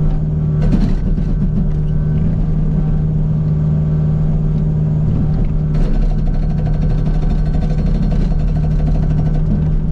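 Kubota U55 mini excavator's diesel engine running steadily under load, with its Agrotk 680 hydraulic breaker hammer rattling rapidly against rock in short spells: briefly about half a second in, then again from about six seconds in for a couple of seconds.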